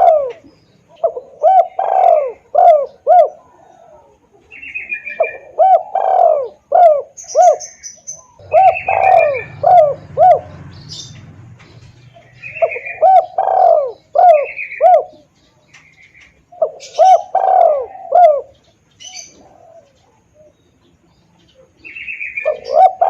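Spotted dove (tekukur) cooing in loud, clear phrases of four or five quick coos, repeated about every three to four seconds. This is the dove's call as used for luring. Higher, short chirps from other birds come between the phrases.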